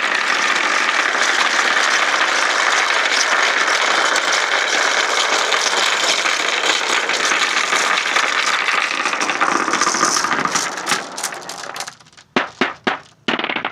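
A pack of marbles rolling and rattling down a long marble-run ramp in a loud, continuous clatter. After about ten seconds it thins into separate clicks, and a few lone clicks near the end mark the last marbles coming through.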